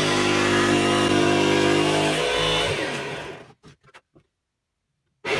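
An electric power tool motor running steadily, then switched off about three seconds in and winding down in pitch as it coasts to a stop, followed by a few faint clicks.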